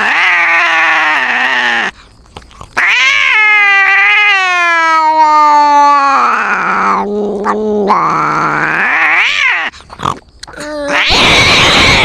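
Domestic cats caterwauling in a fight standoff: long, wavering yowls that rise and fall in pitch, broken by two short pauses, with a harsh hissing outburst near the end.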